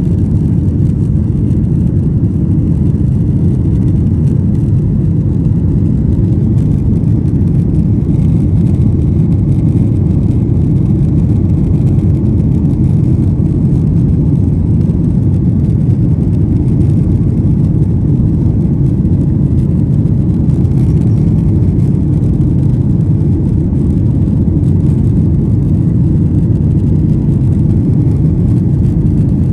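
Steady low rumble of an airliner's jet engines and airflow heard inside the cabin, loud and unchanging.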